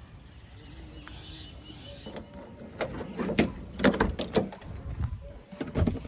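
Faint bird chirps, then from about two seconds in a run of irregular knocks and scuffs that grow louder.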